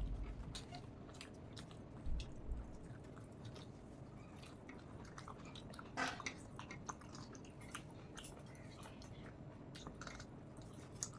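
Faint chewing and eating mouth noises: soft wet smacks and small clicks, with a couple of slightly louder ones about two and six seconds in.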